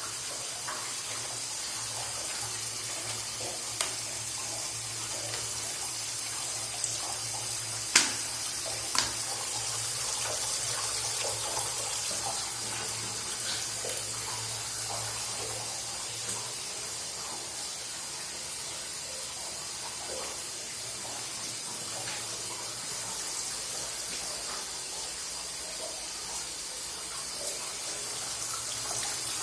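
Very old washing machine running: a steady rush of water churning over a low hum. A few sharp clicks or knocks, the loudest about eight seconds in.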